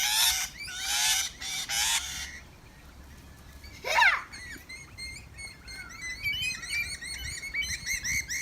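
Lorikeets calling: about two seconds of loud, harsh screeching, then one loud rising call about four seconds in, followed by a run of quick, high chirps and chatter.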